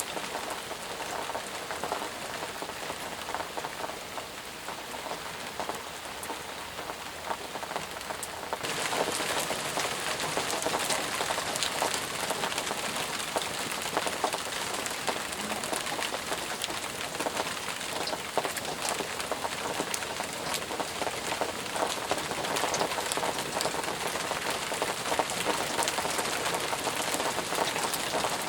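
Steady heavy rain, with many separate drop impacts heard within the hiss. About nine seconds in, the rain abruptly gets louder and brighter and stays that way.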